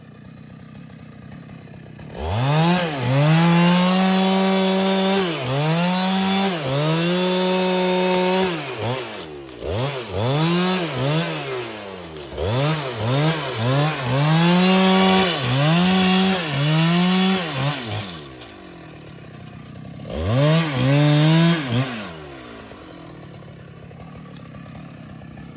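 Husqvarna 395XP two-stroke chainsaw throttled up and down over and over, held at full speed for a second or two at a time, then dropping back. After a short lull it revs up once more near the end.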